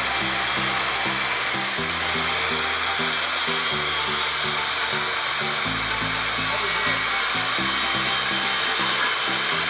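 Circular saw running through a long straight cut, a steady high whine that dips briefly under load about two seconds in. Upbeat background music with a repeating bass line plays underneath.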